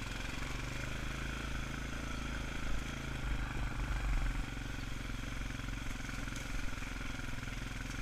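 ATV engine running steadily at low speed, with a fast even pulse, as the quad crawls along a steep trail.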